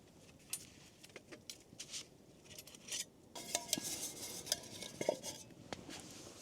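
Camp cookware and utensils clinking and rattling while coffee is being made: scattered light metal clicks and knocks, busier and louder about halfway through, some leaving a brief ring.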